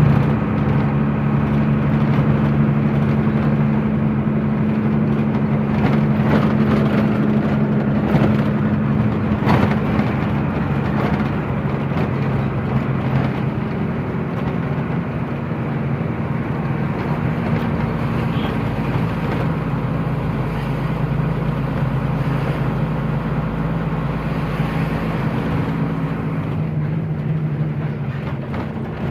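Truck engine running steadily under way, with road and tyre noise; the engine note drops slightly about halfway through.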